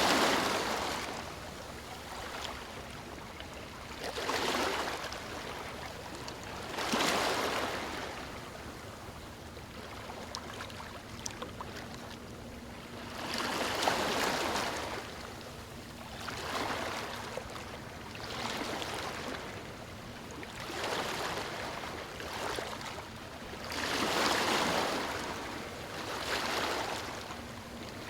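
Small sea waves breaking on a stony shore, a steady wash with about nine surges of rushing water that come every two to three seconds, some spaced further apart.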